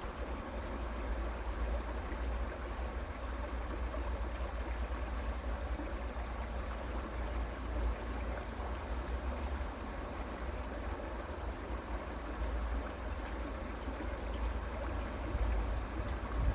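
Creek water flowing steadily, an even rushing wash with a steady low rumble underneath.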